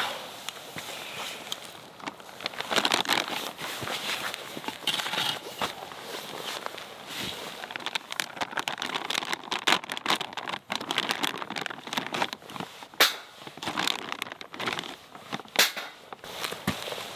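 Wood campfire crackling, with irregular small snaps, a brief rustly stretch, and a couple of sharper single pops near the end.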